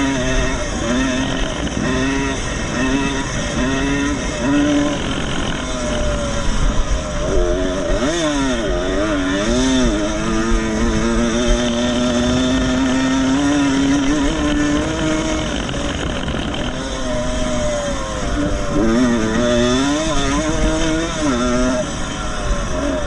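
Vintage 125 cc two-stroke motocross motorcycle racing, the engine pitch climbing and dropping again and again as it is throttled and shifted, with one longer rising pull in the middle.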